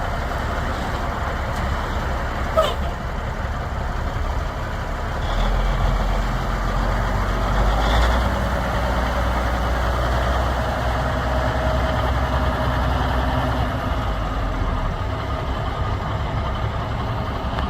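1987 Peterbilt tandem-axle daycab truck's diesel engine running steadily, a little louder and deeper from about five seconds in, with one brief click near the start.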